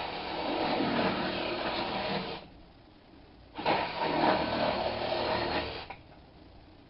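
Greenworks G24 24-volt cordless jigsaw running in two bursts of a couple of seconds each, its blade cutting through a wooden board, with a short pause between the cuts.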